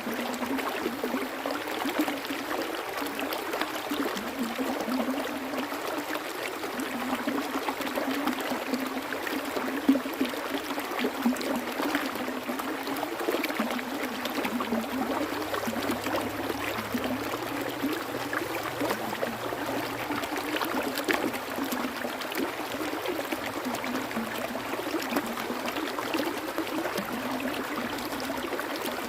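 Water running in a stream, a steady busy trickling and gurgling with a few louder splashes about a third of the way in.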